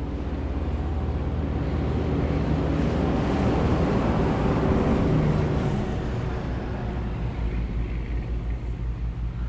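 A road vehicle passing by, its noise rising to a peak about four to five seconds in and then fading, over a steady low rumble.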